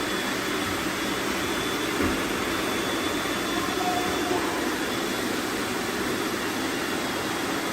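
Steady whir of a large group of robot vacuums running at once, their suction motors and brushes sweeping up confetti.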